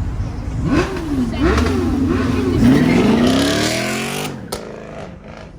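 A performance car engine revved twice in quick blips, then accelerated with its pitch rising steadily for nearly two seconds before cutting off abruptly.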